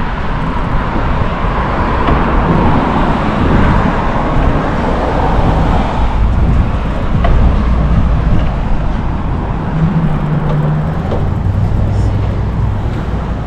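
Wind rushing over the microphone of a camera on a moving bicycle, a loud steady rumble with a brief low hum near the end.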